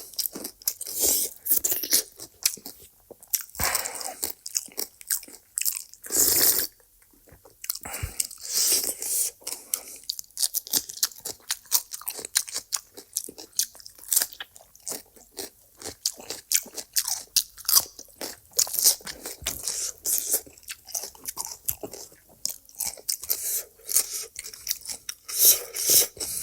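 Close-miked eating sounds: food being bitten, crunched and chewed in quick, irregular clicks, with a short lull about seven seconds in.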